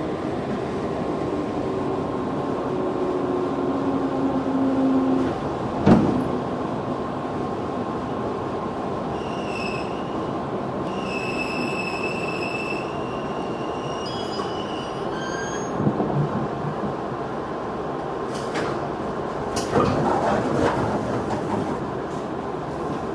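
Inside a JR 211 series electric train running along the track: a steady rumble of wheels on rail, with a sharp thump about six seconds in and a few softer knocks later. A high, thin wheel squeal comes and goes for several seconds near the middle.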